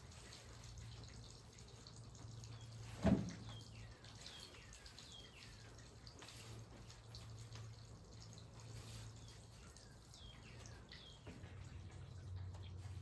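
Faint water dripping: a string of small drips, with a low steady hum beneath and a single thump about three seconds in.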